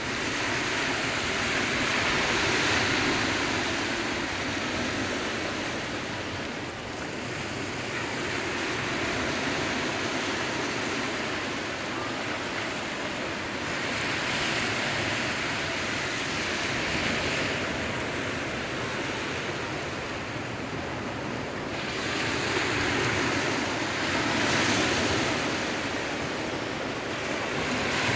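Sea waves washing in, a steady hiss of surf that swells and eases in slow surges several seconds apart.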